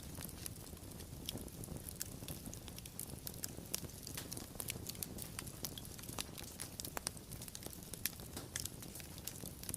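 Fire crackling: frequent sharp pops and snaps at irregular moments over a steady low rumble of the flames.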